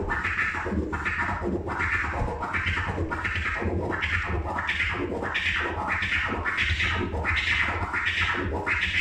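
Turntable chirp scratches: a record sample cut in and out by the crossfader in a steady run of about two strokes a second. Each stroke is sped up and slowed down, so its pitch bends up and down.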